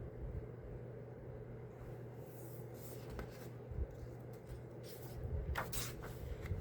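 Soft rustling of paper book pages being handled and turned, a few brief rustles with the clearest a little over five seconds in, over a low steady hum.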